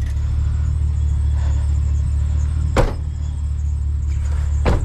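Truck running with a steady low drone. Two sharp clicks or knocks come about two seconds apart, near the middle and just before the end.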